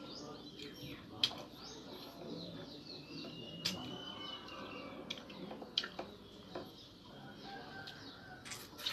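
Faint background bird chirps, with a thin whistle-like call in the middle and a few isolated sharp clicks.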